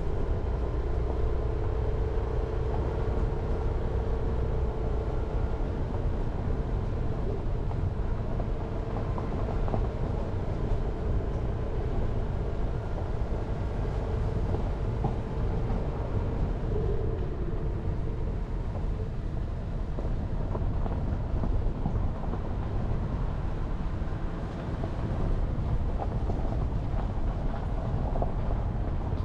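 Jeep Renegade driving along a winding mountain road: steady engine and tyre noise, with a held engine tone that fades out about two-thirds of the way through.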